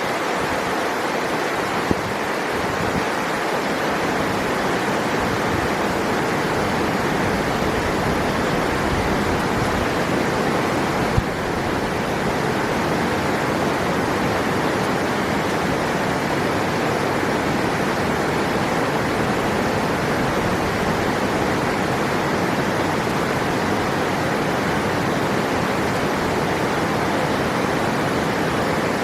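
River water rushing, a steady, even noise with no change, and one brief click about a third of the way through.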